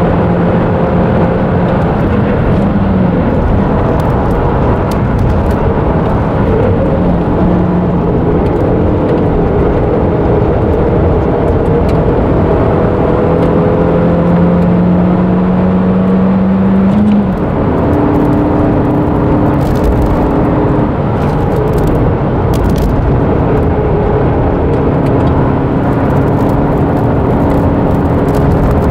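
Nissan March NISMO S's 1.5-litre four-cylinder engine running hard, heard from inside the cabin during a flat-out lap. The engine note climbs slowly, then drops suddenly with an upshift about seventeen seconds in.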